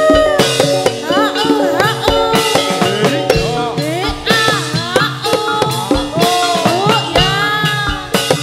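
Live Javanese gedruk accompaniment: a sliding, bending melody line over a steady held tone, drum strokes and rattling jingles.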